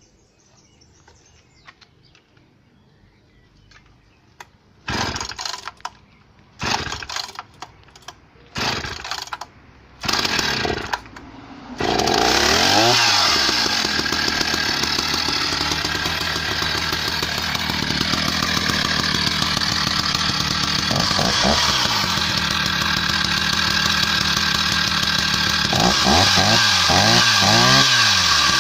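Husqvarna 480 CD two-stroke chainsaw, freshly rebuilt with a new OEM piston and cylinder, being started. Four short bursts come about a second apart, then it catches about twelve seconds in and keeps running. It is revved up and down a few times as it is broken in.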